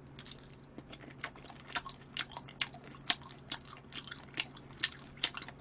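A person chewing spicy chicken feet close to the microphone: soft wet clicks and crunches about twice a second.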